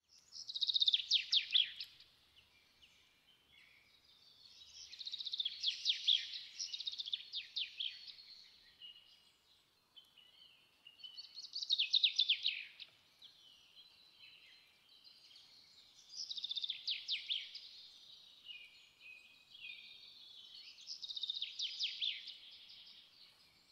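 A songbird singing: five high-pitched phrases of fast trills and chirps, each lasting two to three seconds and coming about every four to five seconds.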